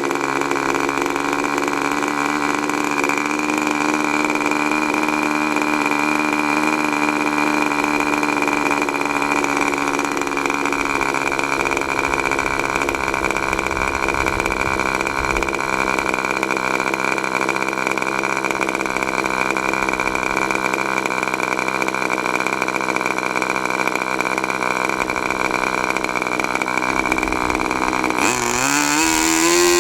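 K&B .40 R/C two-stroke model glow engine running steadily, its pitch wavering slightly, then revving up sharply about 28 seconds in.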